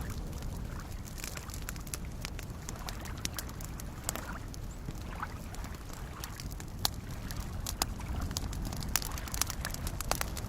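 Campfire crackling, with sharp scattered pops that come thicker near the end, over the low steady slosh of small waves lapping at a lakeshore.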